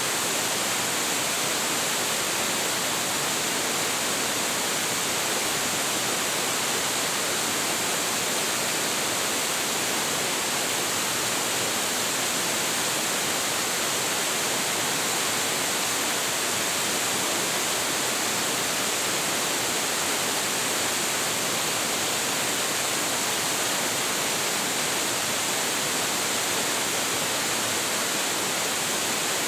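A large waterfall's water crashing down, a steady, even rush of noise with a strong hiss that does not change.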